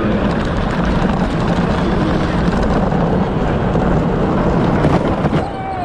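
A racing Power Wheels ride-on car's electric motor and drivetrain running at speed, a steady rumble with rattle. Near the end a whine falls in pitch.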